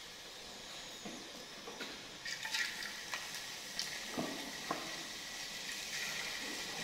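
Potato strips deep-frying in hot oil with a steady sizzle that builds about two seconds in, with a few light clicks and knocks as they are stirred.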